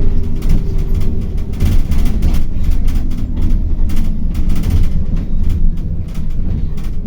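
City bus heard from inside the cabin while moving: a loud, steady low rumble from the drivetrain and road, with frequent rattles and knocks from the body and fittings.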